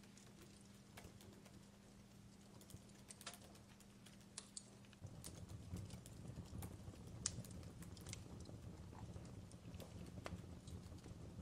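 Fireplace crackling, faint: scattered sharp pops and snaps over a low rumble of burning, which grows louder about halfway through.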